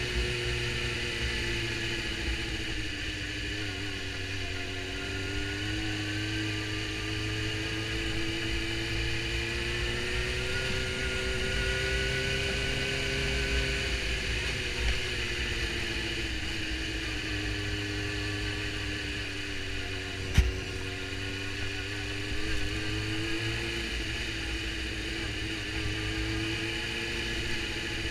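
Suzuki GSX-R750's inline-four engine running as the motorcycle cruises through traffic, its pitch rising and falling gently with the throttle, under a steady rush of wind and road noise. One sharp click about twenty seconds in.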